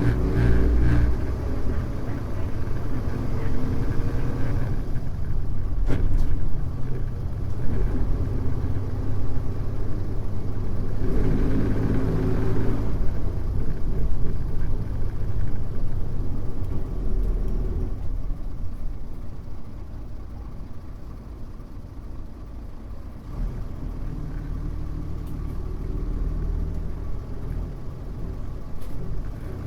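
Mitsubishi Fuso U-MK618J route bus's diesel engine and drivetrain running as the bus drives. It eases off to a quieter stretch past the middle, then builds again near the end, with a couple of brief clicks early on.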